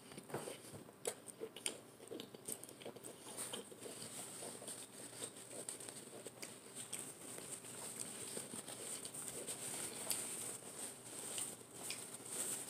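Close-up chewing of a crispy chicken quesadilla: faint, irregular wet mouth clicks and crunches. In the later part a paper napkin crumples and rustles as hands are wiped.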